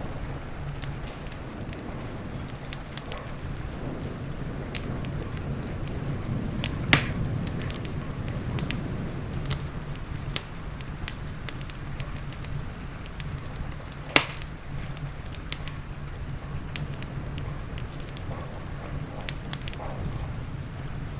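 Crackling wood fire snapping and popping irregularly, with two sharper, louder pops about a third and two-thirds of the way through, over a steady low rumble and rain hiss.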